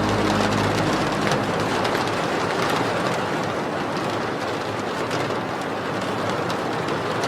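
Steady rain, an even hiss with scattered faint drip ticks. The last notes of a song fade out in the first second and a half.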